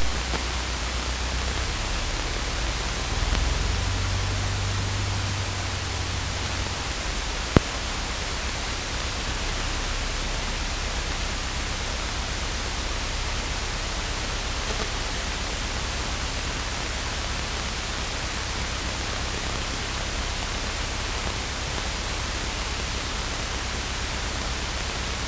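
Steady hiss of an aircraft radio and intercom audio feed between transmissions, with one sharp click about seven and a half seconds in.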